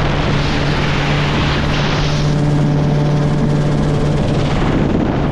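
Helicopter in flight: a steady drone with a strong low hum under a hiss, and the hiss eases a little about two seconds in.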